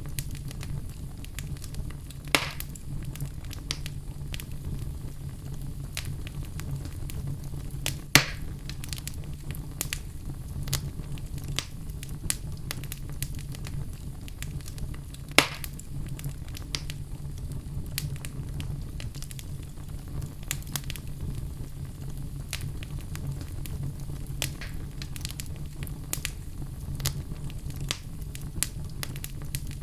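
Wood fire burning in a fireplace, crackling steadily over a low rumble, with three louder pops about two, eight and fifteen seconds in.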